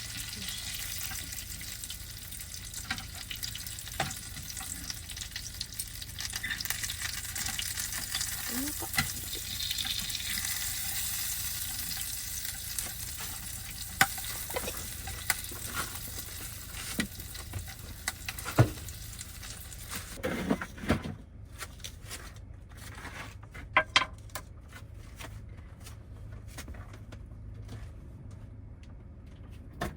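Bone-in chicken frying in a pan with a steady sizzle, with scattered clicks and knocks of utensils. The sizzle stops abruptly about 21 seconds in, followed by a few more knocks.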